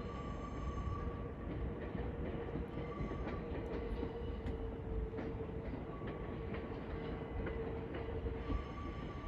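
Sōbu Line commuter train running through the station: a steady rumble with a held whine and a few scattered faint clicks.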